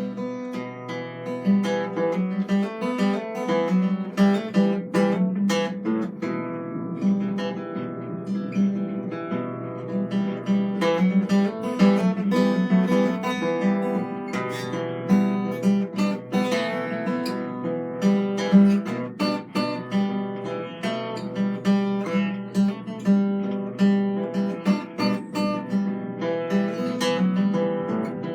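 Live improvised solo music on a plucked string instrument: notes plucked and strummed in a dense flow, each ringing on.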